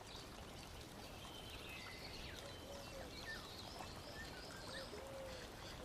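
Faint bird chirps, short and scattered, over a low steady background hiss.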